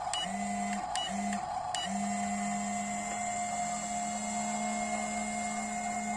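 Small electric motor of an RC dump truck whirring in two short bursts, then running steadily, with a couple of sharp clicks between the bursts.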